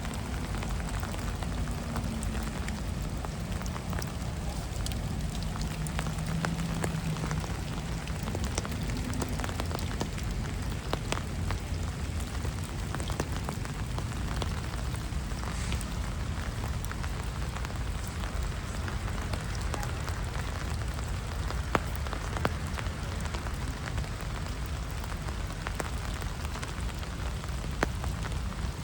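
Steady rain falling on a city street, an even hiss with scattered drop taps and a low rumble underneath; a few louder taps stand out near the end.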